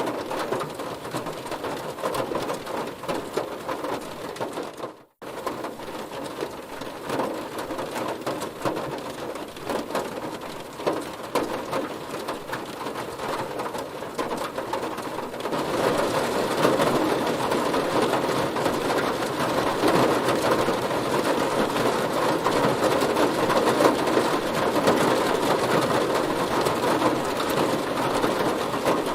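Heavy rain drumming on a car, a dense steady patter of drops. It cuts out for a split second about five seconds in, then grows louder about halfway through.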